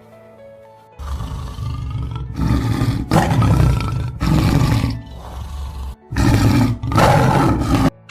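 Tiger roaring repeatedly in long, deep, loud roars, starting about a second in, with a short break about six seconds in before a last loud roar.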